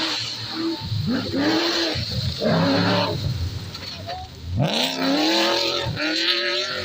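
Off-road rally car engine accelerating hard, its pitch climbing and breaking off several times as it shifts gear, with tyre and gravel noise underneath.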